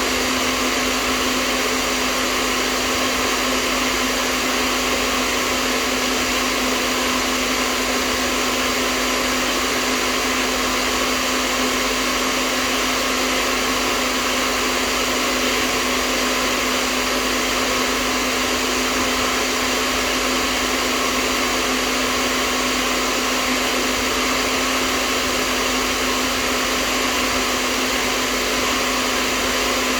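Hair dryer running continuously: an even rush of blowing air with a steady motor hum under it.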